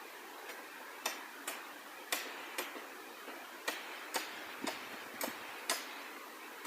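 A string of sharp ticks or taps, about two a second with a few short gaps, over a steady hiss.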